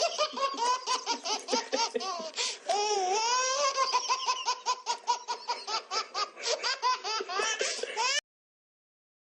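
A person laughing hard and high-pitched in a long run of rapid bursts, cut off suddenly about eight seconds in.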